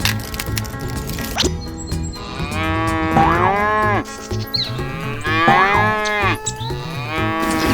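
Cow mooing twice, each call about a second and a half long, rising then falling in pitch, with a third moo starting near the end. Background music plays underneath.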